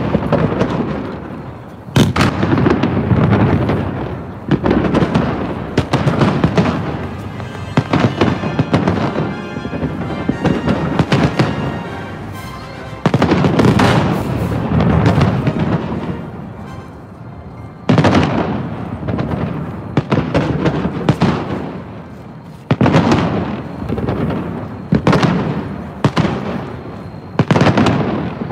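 Aerial fireworks salute: a run of booming shell bursts a second or two apart, each trailing off in a rumble, with crackling in between and a quieter stretch of smaller pops in the middle.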